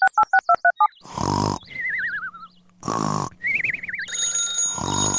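Cartoon-style sound effects: a quick run of beeps, then three short grunting bursts with wobbling whistle glides between them.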